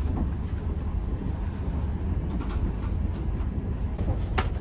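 Steady low rumble of a moving passenger train heard inside a closed AC coach. A few light clicks come about halfway through, and one sharper click comes near the end.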